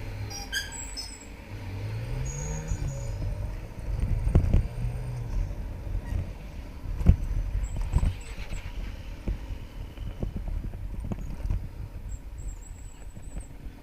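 Motorcycle engine running while riding, its pitch rising then easing off about two seconds in, under steady wind and road rush on the microphone, with a few heavy thumps midway.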